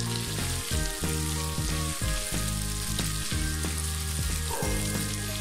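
Chopped onions sizzling steadily in hot oil as a silicone spatula stirs them through the pan, with low background music underneath.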